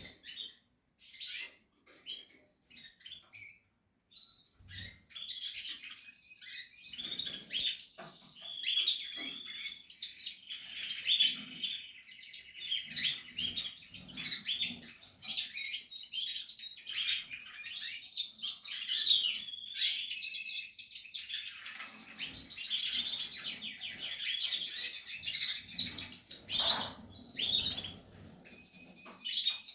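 Portuguese harlequin canaries chirping: only a few scattered chirps at first, then a long run of busy chirps and trills from about six seconds in, easing briefly a little past the twenty-second mark.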